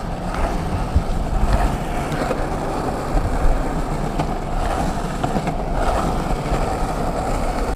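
Penny board's small plastic wheels rolling over street pavement: a steady, even rumble.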